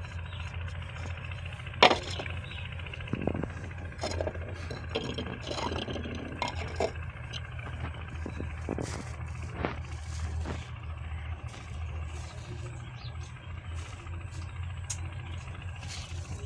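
Scattered clinks and knocks of kitchen utensils against a bowl, the sharpest about two seconds in, over a steady low hum.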